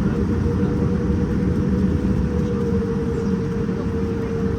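Cabin noise inside a Boeing 787-9 airliner: a steady low rumble with a steady mid-pitched hum running through it.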